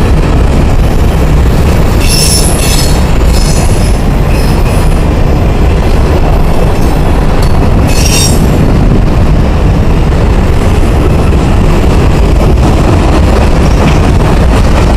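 Covered hopper cars of a freight train rolling past close by: a loud, steady rumble of steel wheels on the rails. Brief high-pitched wheel squeals come about two seconds in and again about halfway through.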